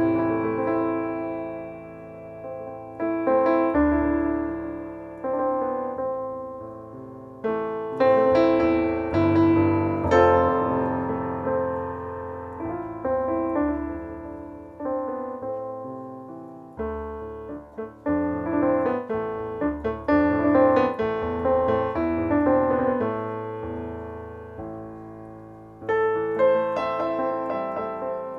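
Piano keyboard playing a nigun melody solo, notes and chords struck and left to ring and fade.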